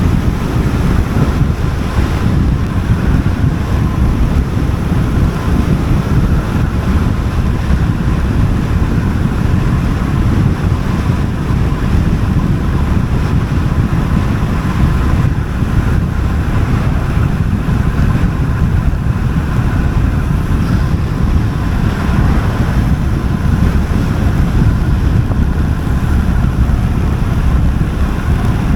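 Wind buffeting the microphone of a road bike descending at speed: a steady, loud low rumble.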